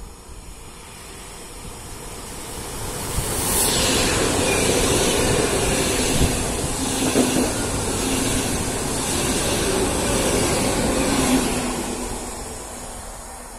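PKP Intercity ED250 Pendolino electric high-speed train passing through the station at speed. The sound builds over the first few seconds, stays loud for about seven seconds as the train goes by, then fades near the end.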